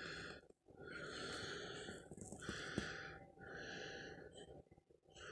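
Faint breathy sounds: about four long, wheezy breaths or snorts in a row, separated by short gaps.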